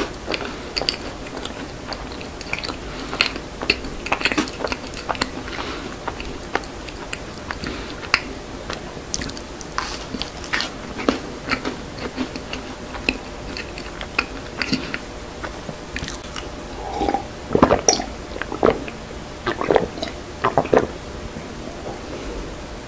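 Close-miked chewing of a macaron: soft crunching and irregular mouth clicks, with a few louder ones near the end.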